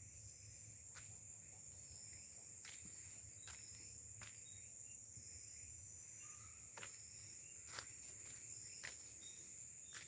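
Faint, steady high-pitched drone of insects in forest at dusk. Scattered light crackles come through it, from steps through brush.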